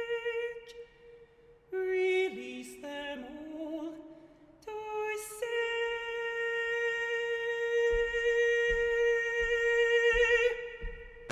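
Solo voice singing wordless long held notes, with a short gliding, falling phrase about two seconds in and vibrato on the last held note. Soft low thumps of body percussion join about eight seconds in.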